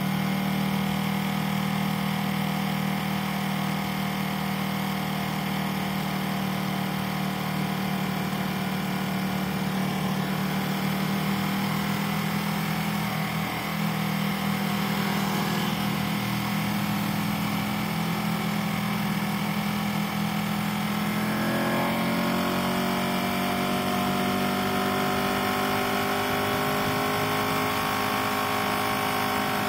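Motorcycle engine running at a steady cruise, with road and wind noise. About two-thirds of the way through, the revs climb slowly as the bike accelerates.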